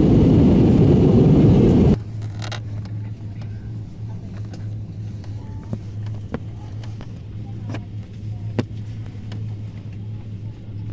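Airliner cabin noise: a loud rushing engine and air noise cuts off abruptly about two seconds in, leaving a steady low hum with faint scattered clicks.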